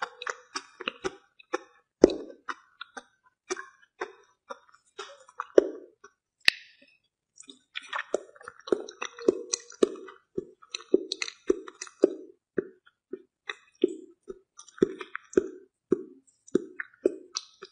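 Close-miked mouth sounds of someone chewing soft food: wet smacks and clicks, settling into a steady rhythm of about two chews a second in the second half, with one sharp click about six seconds in.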